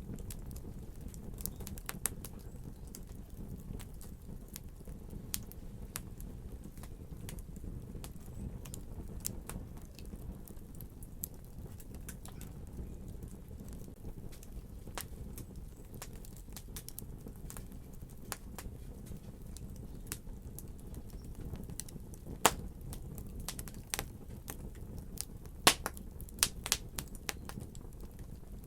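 Wood fire crackling: a steady low rumble of flame with scattered sharp pops and snaps, a few louder pops bunched together near the end.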